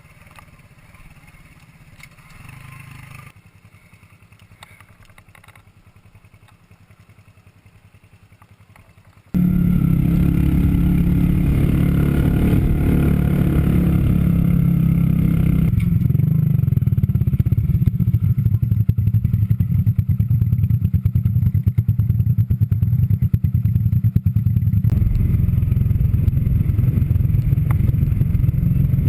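Minsk 125cc two-stroke motorcycle engine running loud and close, cutting in suddenly about nine seconds in. Before that there is only faint low background sound.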